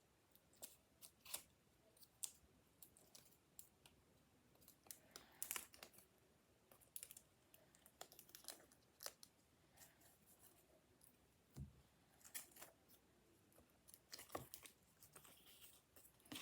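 Faint, irregular snips and paper rustles of scissors cutting paper and cardboard, with scattered small clicks as the pieces are handled.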